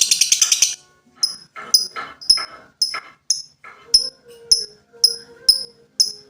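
Lovebird calling. A dense, rapid high trill cuts off under a second in, followed by a steady series of short, sharp, high chirps about twice a second.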